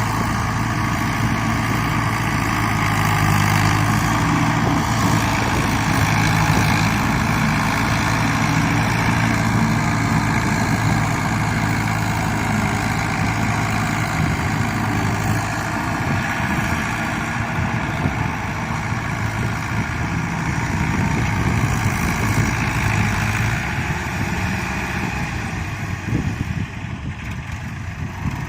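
Fiat 640 tractor's four-cylinder diesel engine running, with a steady low drone for about the first half that turns rougher and less even for the rest.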